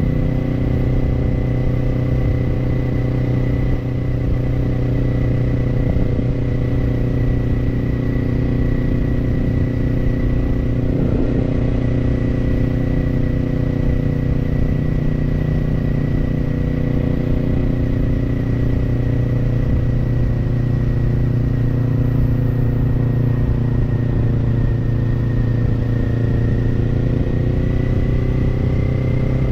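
Kawasaki parallel-twin motorcycle engine running through an Orion Katya slip-on exhaust at a steady cruise, its note holding nearly constant pitch and rising slightly near the end.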